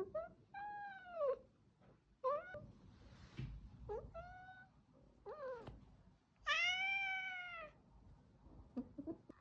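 Domestic cat meowing repeatedly, about six drawn-out calls that each rise and fall in pitch. The longest and loudest comes about two-thirds of the way through, followed by a few short, faint calls near the end.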